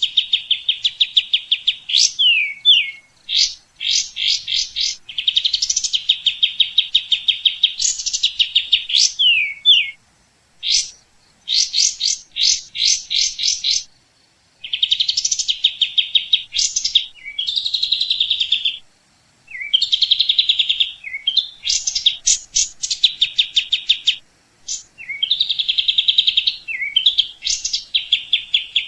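A songbird singing: long, fast trills of evenly repeated high notes, broken by quick sweeping notes and chatter, in phrases with brief pauses between them.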